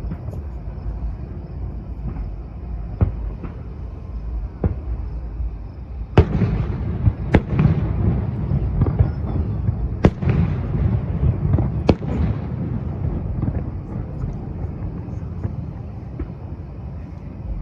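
Aerial fireworks display: a string of sharp bangs from bursting shells, densest and loudest in a cluster in the middle, over a low continuous rumble with crackle between the reports.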